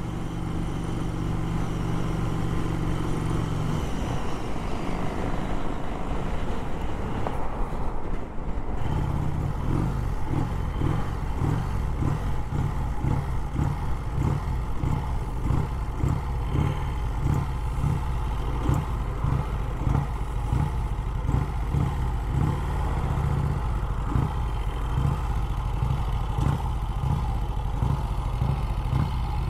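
1951 Vincent Rapide V-twin motorcycle engine running under way. About four seconds in the engine note rises for several seconds, then settles into a steady, evenly pulsing run.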